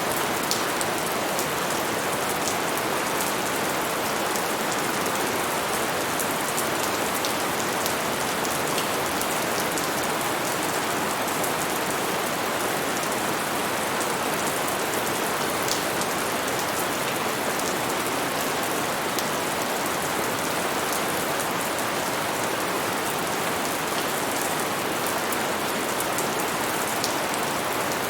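Steady rain falling and pattering on a surface, with many small drops ticking through it.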